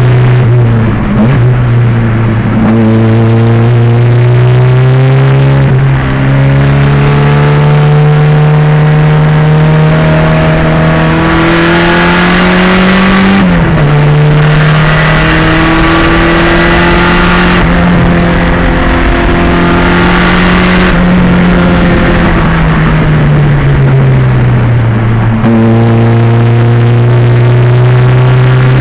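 A 1987 Pontiac Fiero race car's turbocharged 2.0-litre engine running hard, loud and steady. Its note climbs slowly through long pulls, drops sharply about halfway through, and sinks slowly in the last few seconds before picking up again.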